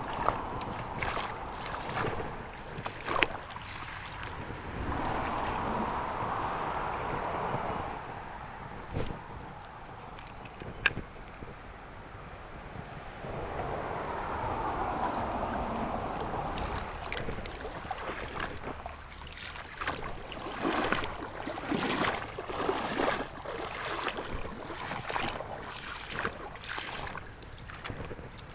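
River water sloshing and gurgling, swelling up twice for a few seconds each, with scattered sharp clicks and knocks. The last ten seconds are busier with rustling and tapping.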